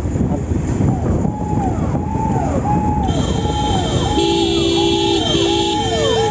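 Emergency vehicle siren in traffic, repeating a high held note that drops away about every 0.7 seconds from about a second in. Steady horn honks join from about halfway, over a low rumble of traffic.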